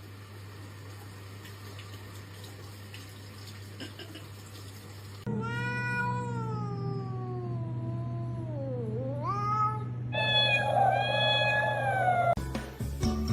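A cat yowling: one long drawn-out call about five seconds in that slides down in pitch and turns up again at its end, then a second, shorter wavering call. Before the calls only a low steady hum is heard, and music starts near the end.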